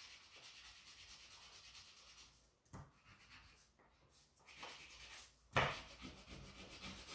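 Crayon rubbing back and forth on paper, a faint, rapid scratchy stroking as an area is shaded in. It pauses for a couple of seconds near the middle with a single light tap, then resumes, a little louder at first.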